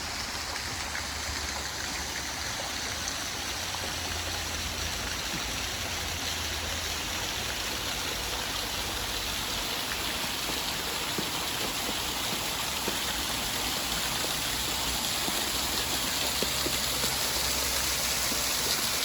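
Small woodland waterfall: a steady rush of water pouring over a rock ledge, growing a little louder toward the end.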